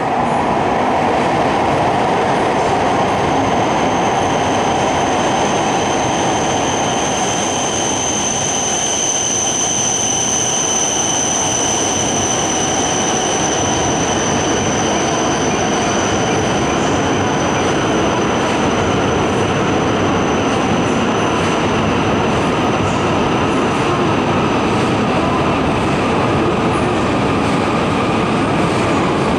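Coupled E5-series and E6-series Tohoku Shinkansen train pulling into a station platform at low speed: a steady rumble of wheels and running gear under a thin high whine that is strongest about a third of the way in.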